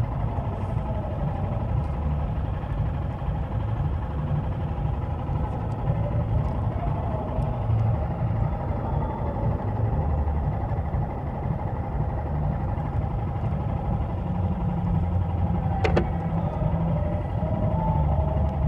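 Motorcycle engine running with a steady low rumble, and a single sharp click about 16 seconds in.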